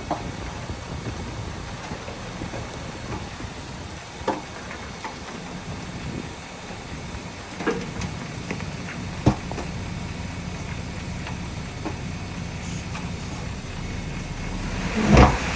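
Heavy earthmoving machinery running steadily with a low engine rumble, broken by occasional sharp metallic knocks, the loudest near the end.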